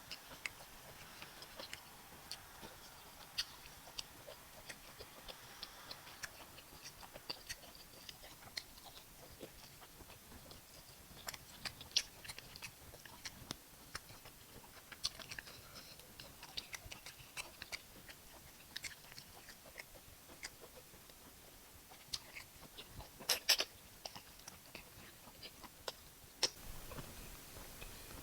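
Close-up eating sounds of a person chewing fufu and bitter leaf soup with meat: soft, wet mouth clicks and smacks scattered irregularly, with a short cluster of louder clicks about 23 seconds in.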